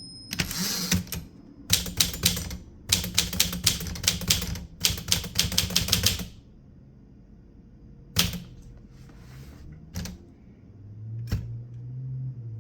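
Typewriter keys striking in quick runs of sharp clacks for about six seconds, then stopping, with only a few single clicks after.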